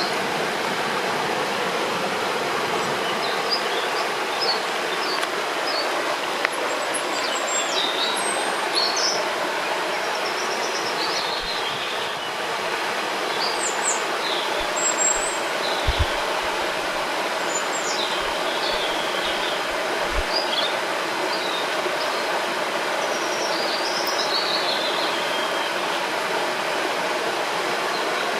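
Steady rush of flowing river water, with small birds chirping and twittering in short, high calls throughout. A few soft low thumps come about halfway through.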